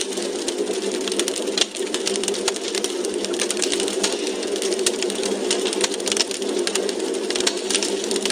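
Wood fire burning in a fireplace, crackling steadily: many small irregular pops and snaps over a constant hiss.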